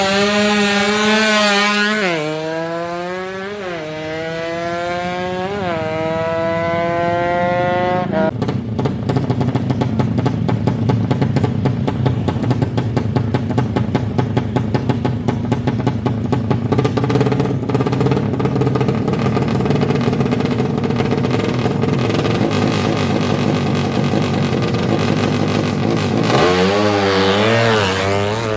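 DOHC racing engine being revved in repeated rising and falling blips, then held at a harsh, rapidly pulsing steady note for most of the middle, with more rev blips near the end.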